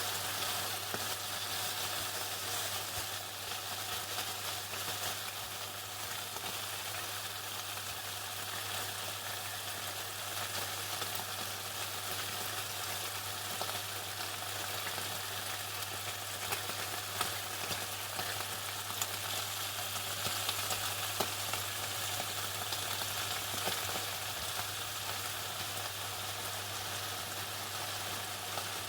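Chicken frying in hot oil: a dense, steady crackle of many small pops, with a steady low hum underneath.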